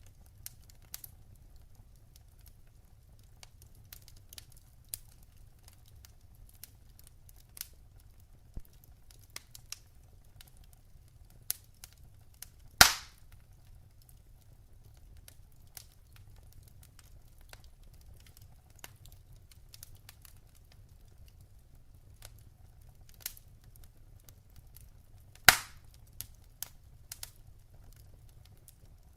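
Wood fire crackling in a fireplace: scattered small snaps and crackles, with two loud pops from the burning logs, about halfway through and near the end, over a low steady rumble.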